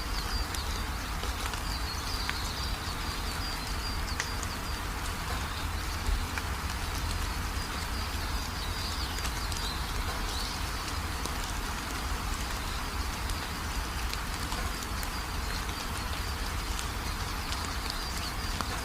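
Steady rainfall, an even patter with a low rumble underneath, with faint high chirping calls repeating through it.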